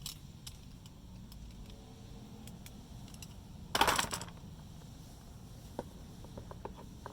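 Small clicks and taps from hand-tightening a part of the fuel pump assembly, with one brief scraping rattle about four seconds in.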